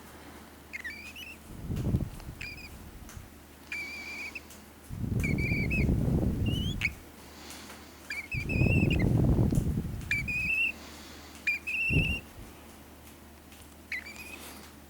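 An adult male pet bird whistling a string of short, chirpy notes to his chick, about a dozen of them, some rising and some wavering. Several loud, low, muffled rumbles come in between the notes, from handling or movement near the microphone.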